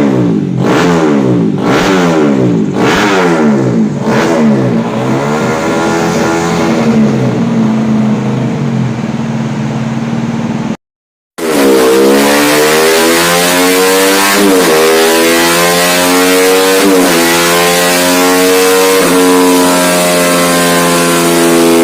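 A tuned-up 125cc motorcycle engine being revved. It starts with quick throttle blips, about one every 0.7 s, then settles. After a brief cut it is held loud at high revs with short dips in pitch every few seconds.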